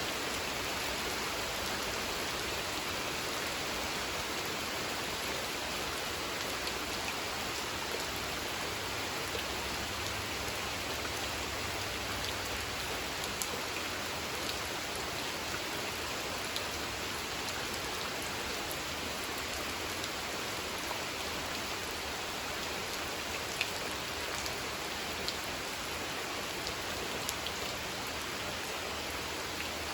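Steady rain falling on a pond, a constant even hiss with scattered ticks of single drops.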